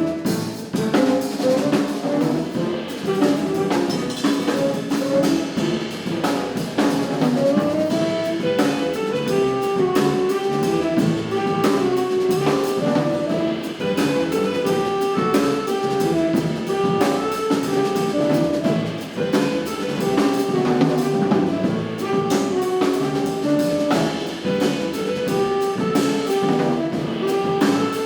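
Jazz quartet of saxophone, piano, double bass and drums playing at an up-tempo pace, a melodic line of quick notes moving over busy drums and cymbals.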